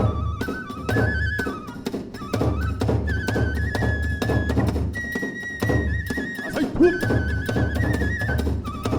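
Kagura hayashi music: a bamboo transverse flute plays a stepping, trilling melody over fast, steady drum strokes and clashing hand cymbals.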